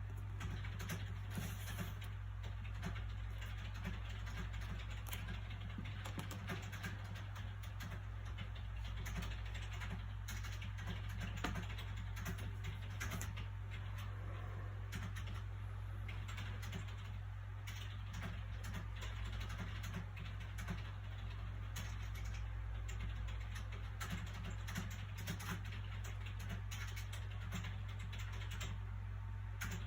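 Steady low background hum with soft, irregular small clicks and rustles of book pages being handled.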